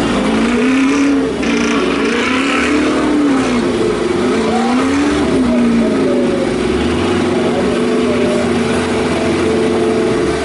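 A vehicle engine revving over and over, its pitch rising and falling in a series of swells about a second long, over a low rumble.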